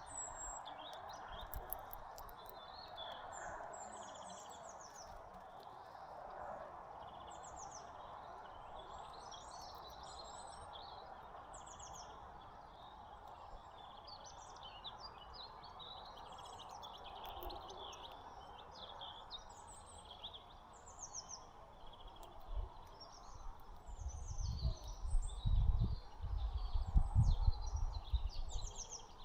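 Small songbirds chirping and twittering with many short, high calls over a steady background hum. Low rumbling thumps come in over the last few seconds.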